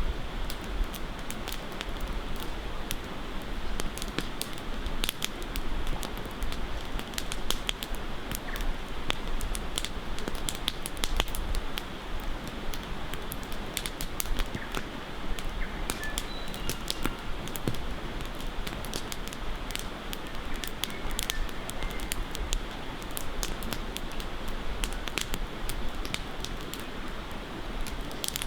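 Campfire crackling with many sharp irregular pops, over a steady rushing of river water. A few brief bird chirps come through in the middle.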